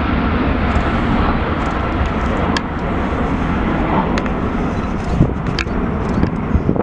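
Steady rumble of a jet airliner's engines, easing a little about two and a half seconds in, with a few faint clicks.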